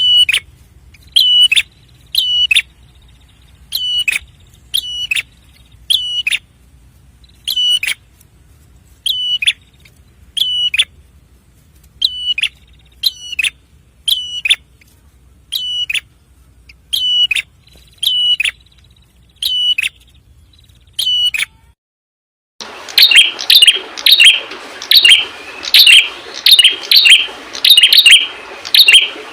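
Red-headed prenjak giving short, sharp, high calls over and over, roughly one every second or so. Near the end there is a brief break, then a faster, busier run of the same kind of calls over more background noise.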